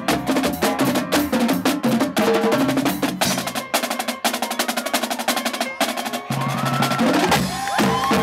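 Marching drumline playing a fast, dense cadence of snare and drum strikes. Near the end, rising and falling cries come in over the drumming.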